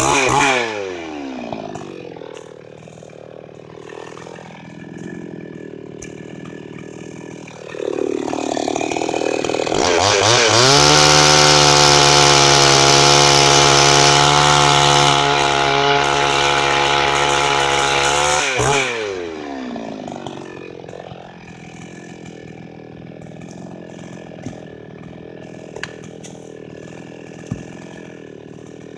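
Chinese-made two-stroke chainsaw coming down off full throttle to idle. It idles for several seconds, then revs up and is held at a high steady pitch for about eight seconds. It then drops back to idle, with a few light clicks near the end.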